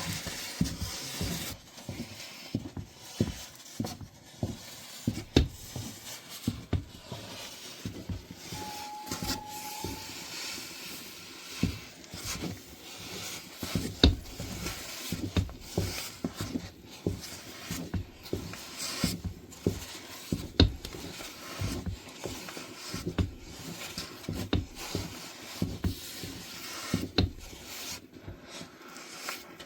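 Irregular clinks, knocks and scrapes of kitchen utensils and pots while cooking, with a brief high tone about nine seconds in.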